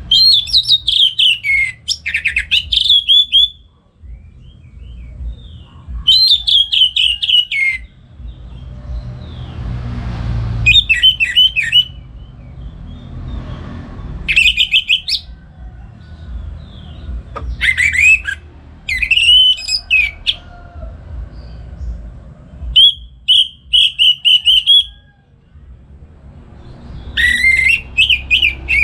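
Orange-headed thrush singing its full, loud song in rapid warbling phrases of one to three seconds, separated by short pauses, over a faint low rumble.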